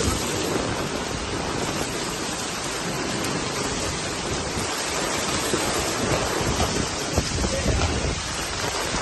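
Rain falling steadily: a dense, even hiss with a low rumble that rises and falls.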